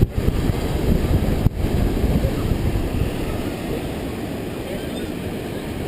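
Wind buffeting the camera's microphone, a steady low rumble over the sound of surf, easing slightly after a couple of seconds.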